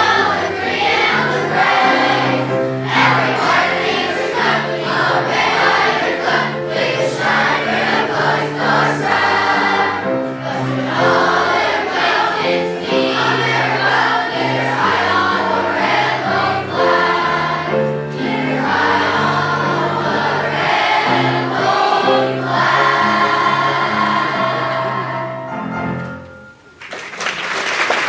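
Children's choir singing a song with accompaniment; the song ends about 26 seconds in and applause breaks out near the end.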